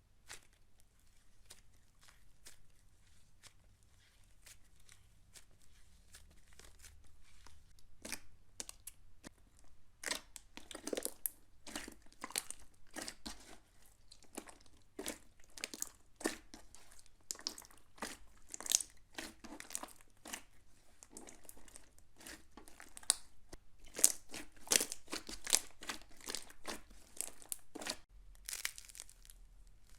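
Slime being handled and pressed, giving a run of sharp crackles and pops. Faint and sparse at first, denser and louder from about a third of the way in.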